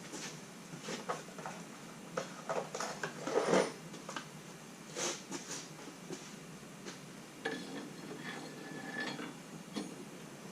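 Hand tools and metal parts clinking and clattering in irregular short knocks, with the loudest knock about three and a half seconds in.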